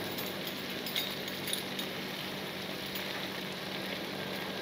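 Blended chili spice paste sizzling in oil in a wok: a steady hiss, with a couple of faint clicks about a second in.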